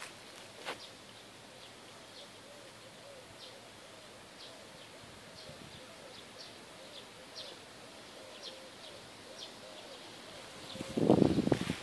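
Wild birds chirping in short, high calls about once a second over an outdoor background, with a faint wavering tone underneath. Near the end comes a sudden loud, low rumble lasting under a second.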